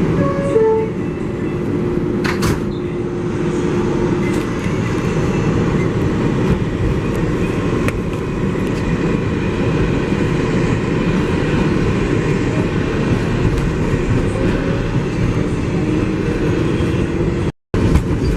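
R188 subway car of the 7 local train running on the rails between stations: a steady, loud rumble, with a short stepped rising whine in the first second as it pulls away. The sound cuts out briefly near the end.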